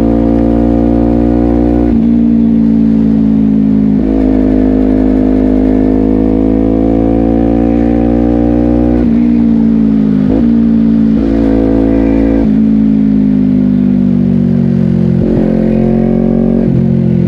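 Honda CBR250RR SP's parallel-twin engine through a Yoshimura exhaust, heard while riding: the engine note climbs slowly under throttle and is broken by several abrupt pitch changes from gear shifts. It also has a few short rev blips, then eases down over the last few seconds.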